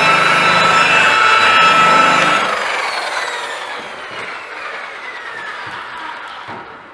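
Rotary car polisher running with a steady high whine, switched off about two and a half seconds in and spinning down, its whine falling in pitch and fading.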